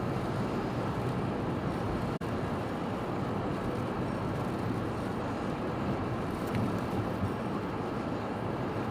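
Steady storm noise of strong wind and rough sea, an even low rumble with wind on the microphone, and a momentary drop-out about two seconds in.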